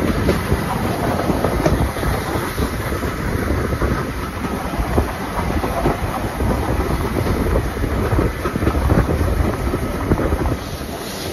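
Steam-hauled passenger train running, heard from an open carriage window: wheels clicking over the rail joints amid the steady rumble and rush of the moving coaches.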